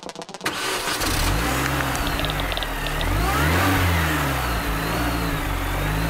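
Car engine starting with a sudden catch about half a second in, then revving up and down several times.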